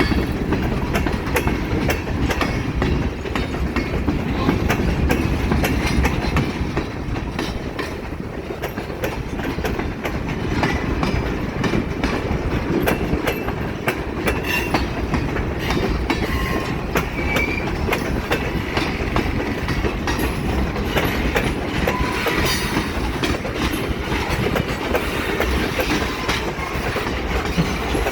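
A train rolling steadily past on the track, a continuous heavy rumble with the wheels clicking over the rail joints throughout.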